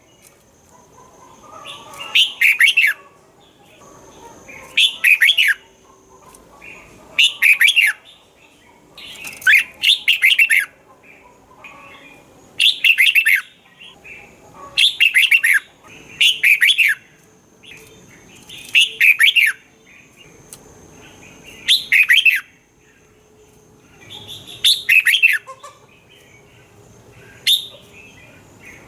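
Red-whiskered bulbul singing, short bright phrases of quick sweeping notes repeated about every two seconds.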